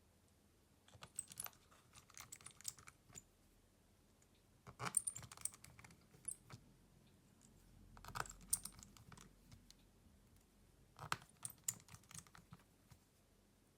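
Small hand tools and phone parts clicking and tapping on a work surface as a smartphone is taken apart. The clicks come in four short bursts of rapid ticks a few seconds apart.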